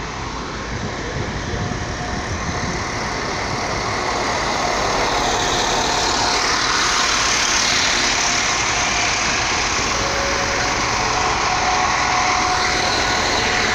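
Serbian Railways (Srbija Voz) diesel multiple unit rolling slowly along the platform, its underfloor engine running and wheels on the rails. It grows steadily louder as the train comes close, with more hiss and rail noise from about halfway.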